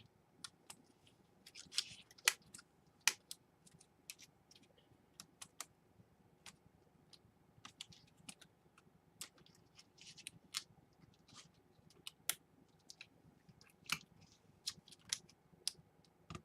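Irregular small clicks and taps of plastic laptop parts being handled and pressed into place by hand, with a few brief rustles.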